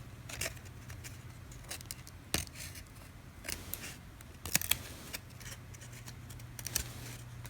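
Trading cards being handled and flipped through one at a time: irregular short swishes and sharp clicks, the sharpest a little over two seconds in and a couple more around the middle, over a low steady hum.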